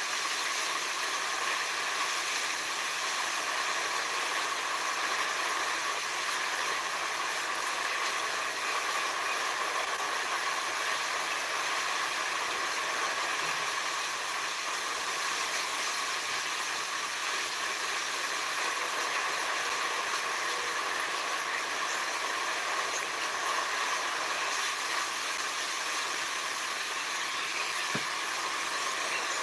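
Forest ambience: an even, unbroken hiss at a constant level, with no rise and fall.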